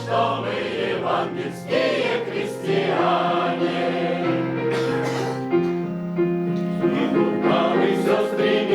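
Choir singing a Russian spiritual song over music, holding long notes in several parts above a sustained low line.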